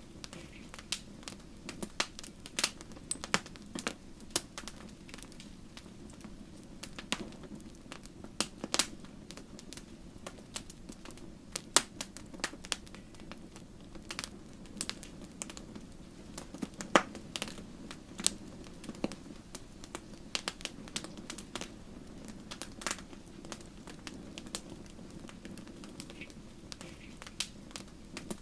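Wood fire in a fireplace crackling, with frequent sharp irregular pops and snaps of burning logs over a steady low hiss of flame.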